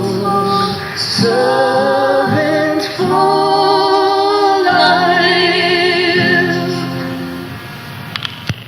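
Sung closing phrase of a worship song duet: voices holding long notes with vibrato over sustained low accompaniment notes, fading out toward the end, followed by a couple of sharp clicks.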